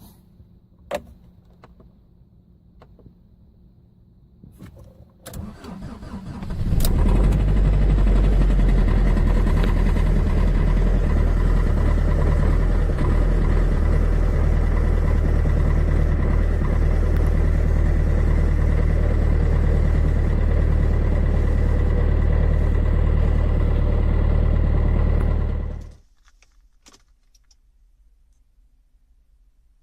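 Car engine cold-started in extreme cold. A few clicks come first, then a short crank, and the engine catches and runs at a steady idle for about twenty seconds before cutting off abruptly.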